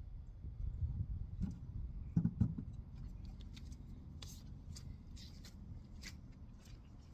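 Hands working on a tiller with tools: a few dull knocks about two seconds in, then a string of short, sharp clicks and scrapes.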